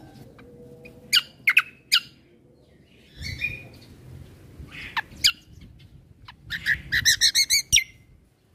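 Kecial kombo (cucak kombo) songbird singing: a few sharp high notes, a brief scratchy chatter, then a quick run of about eight repeated notes near the end.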